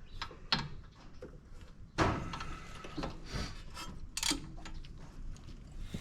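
Hand tools clinking and knocking against metal while the rear brake caliper's bolts and hose fitting are worked on, with a sharp knock about two seconds in and lighter clicks around it.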